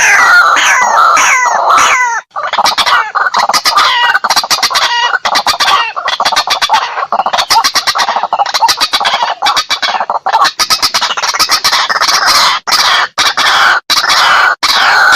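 White-breasted waterhen calling loudly and without pause in a run of harsh repeated notes. It opens with a few falling notes, breaks off for a moment about two seconds in, then goes on in a faster, denser run of rapid notes.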